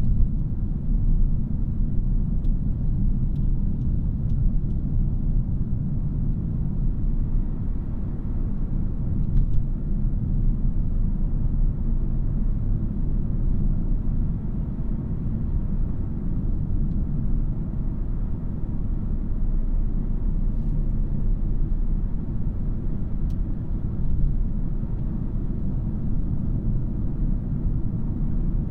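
2017 Audi A3 Premium being driven: a steady low rumble of road, tyre and engine noise from its 2.0-litre turbocharged four-cylinder, with a few faint ticks.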